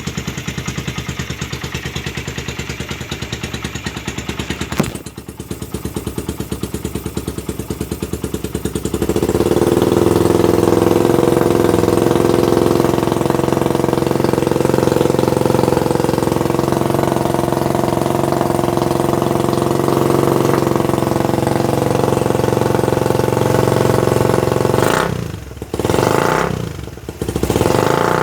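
Suzuki Satria F150 single-cylinder four-stroke engine running through a hollowed-out Thai-style aftermarket exhaust. It idles with an even pulsing beat, then from about nine seconds in is held at higher revs for some fifteen seconds. Near the end it drops back, with a few short throttle blips.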